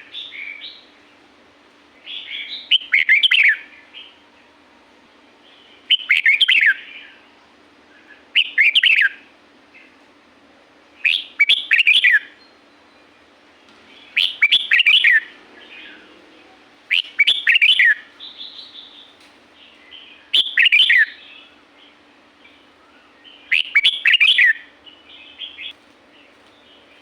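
Red-whiskered bulbul singing: eight short, loud warbled phrases, one about every three seconds.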